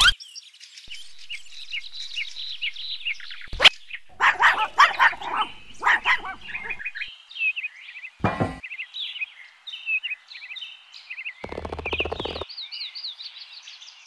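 Small birds chirping, a steady run of short, quick high notes, with a few louder, brief noises about four to seven seconds in, around eight seconds and near twelve seconds.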